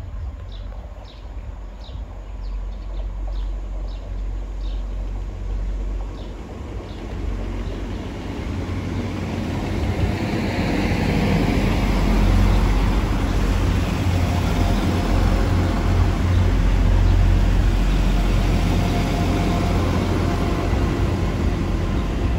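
A train passing: its noise builds over several seconds to a loud, steady rumble and rush that holds to the end. Faint regular ticks come about twice a second at first.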